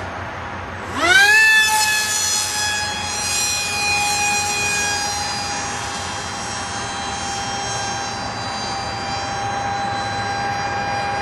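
Electric brushless motor and propeller of a 42-inch RC plane spooling up sharply to full throttle about a second in. It then holds a steady high whine as the plane flies, its pitch bending briefly a few seconds later.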